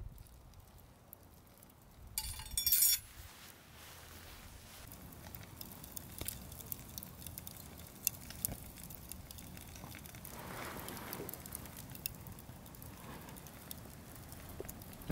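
A brief metallic jingle about two seconds in, followed by scattered faint clicks and light knocks.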